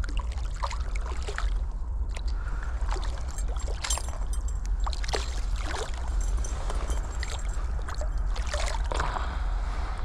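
Water splashing and sloshing in short, irregular bursts over the steady rush of river current, as a hooked trout is drawn in and handled at the surface.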